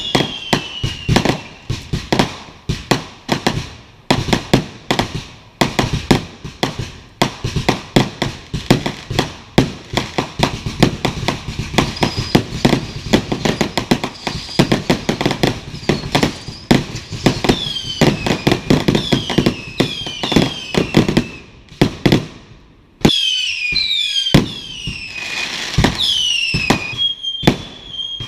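Fireworks going off in a dense barrage of bangs and crackles, with several whistling fireworks sliding down in pitch. There is a short lull a little past twenty seconds in before more bangs and whistles.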